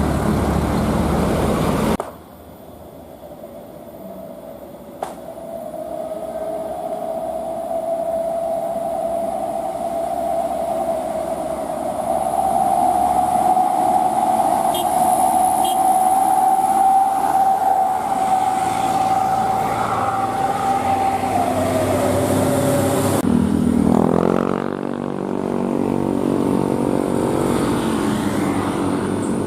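Heavy vehicle engine running under load, with a steady whine that slowly rises in pitch and then drops. The sound cuts off abruptly twice, and after the second cut the engine note rises and falls.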